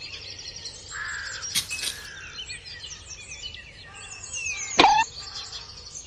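Several small birds chirping and calling in quick, high notes, with a sharp click about a second and a half in and a louder, sharper sound with a falling pitch near the five-second mark.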